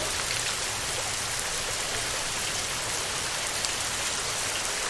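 Heavy rain falling steadily on a tin roof: a dense, even hiss with scattered ticks of individual drops.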